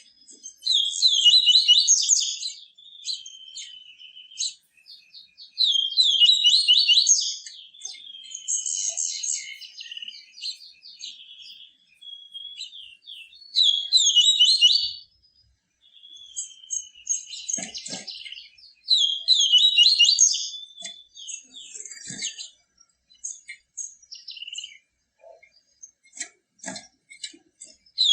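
Papa-capim seedeater singing: loud, rapid, high-pitched twittering phrases that recur every four to six seconds, with softer twitters in between. A couple of faint knocks come in the second half.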